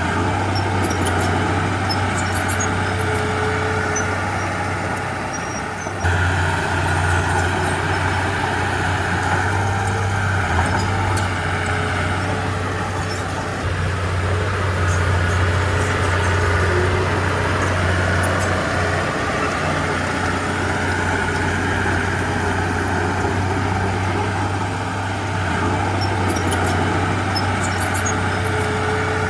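Heavy diesel engine of earthmoving machinery running under load, getting suddenly louder about six seconds in and changing pitch a few more times.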